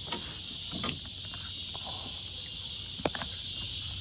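Steady chorus of insects chirring, with a few light knocks about a second in and a sharper one near three seconds.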